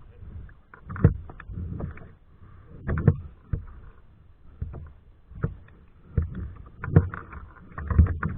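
Kayak paddling: the paddle blades dipping and splashing with a low knock against the hull, coming roughly once a second.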